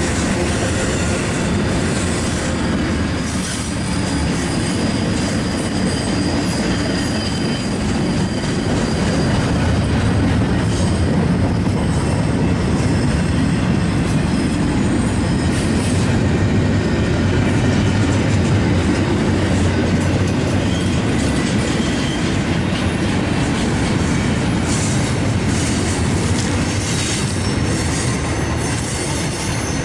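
Freight train cars rolling past on the rails: a steady, loud rumble of wheels on track with rail-joint clatter and a thin, high wheel squeal at times.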